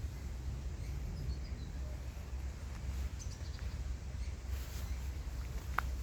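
Outdoor nature ambience: a steady low rumble with a few faint, short, high bird chirps, and one sharp click near the end.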